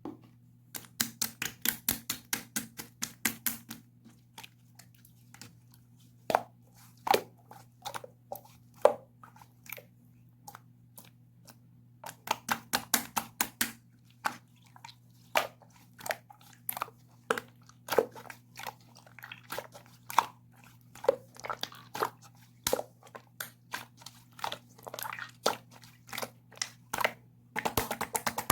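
Clear slime being squeezed and pressed by hand, making quick runs of crisp clicks and pops in bursts, with sparser single clicks between. A faint steady low hum runs underneath.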